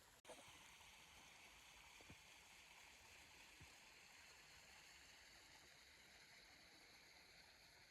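Near silence: a faint steady hiss, with a couple of faint ticks.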